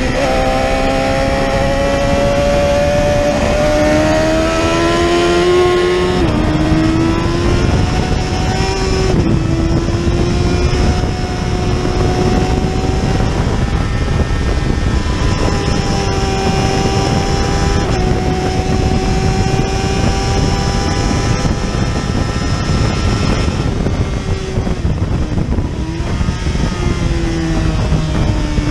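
Racing motorcycle engine at high revs, its pitch climbing slowly and then dropping sharply at gear changes, about six, nine and twenty-four seconds in, over a constant rush of wind and road noise.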